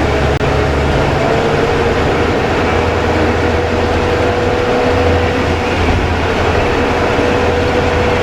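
KiHa 20 diesel railcar under way, heard from on board: the DMH17 diesel engine's steady drone and the running noise of the train, with a thin steady whine on top.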